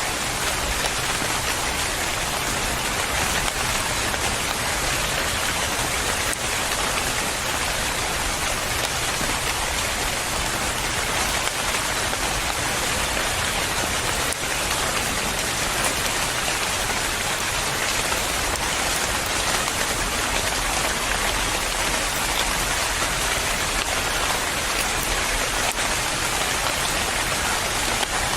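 Steady rain falling and pattering on a surface, an even hiss of many drops.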